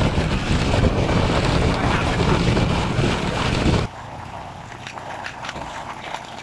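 Wind buffeting the microphone of a camera riding on a moving motorcycle, with road and engine rumble beneath. Just under four seconds in, the sound drops suddenly to a quieter rumble with scattered knocks.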